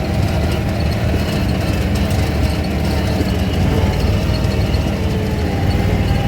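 Off-road vehicle engine running steadily, a constant low drone.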